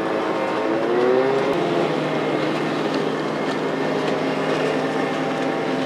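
Antique outboard motor running on the water, its pitch dipping and rising again in the first second or two, then holding steady.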